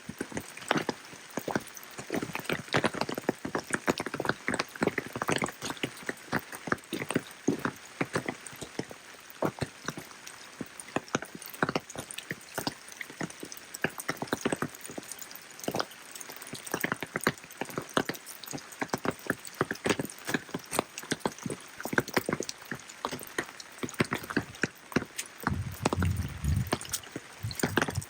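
Rain falling, heard as a dense, irregular patter of close drops and drips ticking over a light hiss. A low rumble swells in near the end.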